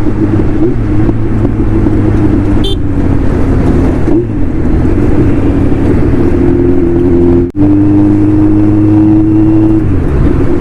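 Kawasaki Z900's inline-four engine with an aftermarket exhaust and performance air filter, running at steady cruising revs as the bike rides along. A short high beep sounds about three seconds in, and the sound cuts out for an instant about seven and a half seconds in.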